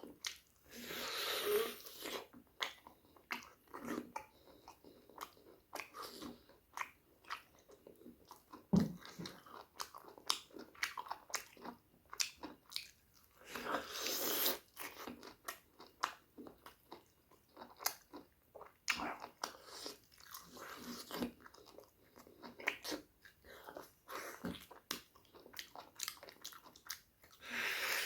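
Close-miked chewing and biting of pork ribs and curry, with irregular crunches and smacks. A couple of longer noisy stretches come about a second in and again halfway through.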